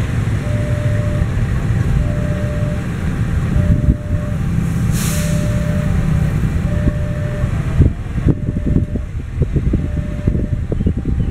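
Fuel tank wagons of a freight train rolling slowly on the rails, a steady low rumble. A short beep repeats about once a second, a brief hiss comes about five seconds in, and irregular knocks and clanks of wheels and couplings come in the last few seconds.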